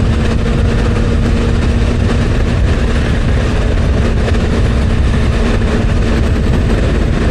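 Motorcycle cruising at steady highway speed: heavy wind rush over a steady engine hum.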